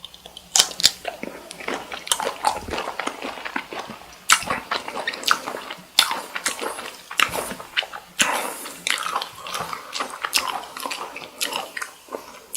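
Close-miked chewing and biting of cooked cocktail shrimp: an irregular run of sharp bites and mouth clicks, several a second.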